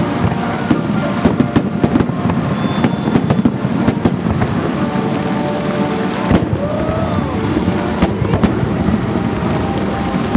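Festive fireworks salute: a continuous rumble of bursts with many sharp cracks and crackles, two heavier bangs late on.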